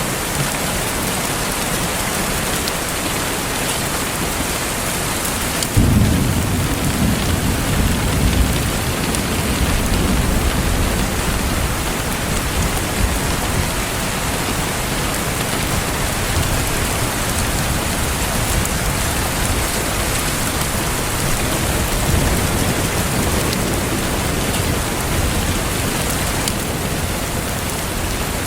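Steady rain hiss, with a deep rumble of thunder that breaks in suddenly about six seconds in and rolls on for several seconds before fading back under the rain.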